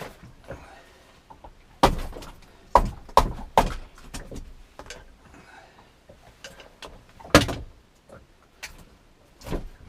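Irregular hard knocks and bumps in a small open boat, a few sharp ones about two to four seconds in and the loudest past seven seconds, with fainter taps between.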